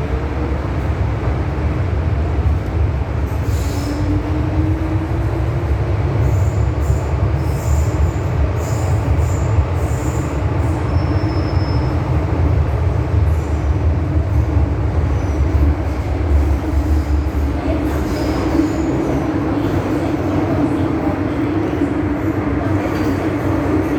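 MTR M-Train electric metro train running at speed: a steady rumble of wheels on the rails with a traction motor hum that climbs slightly in pitch, and short, high wheel squeals scattered through the run.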